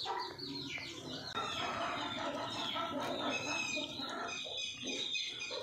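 Birds chirping in the background, many short high calls overlapping.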